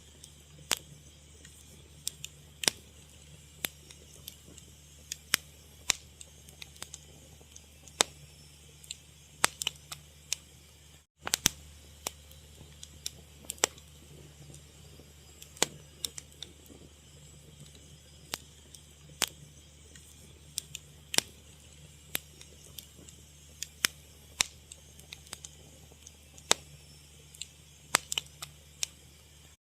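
Fire crackling: irregular sharp pops and snaps, several a second, some louder than others, over a low steady hiss. The sound drops out for a moment about eleven seconds in.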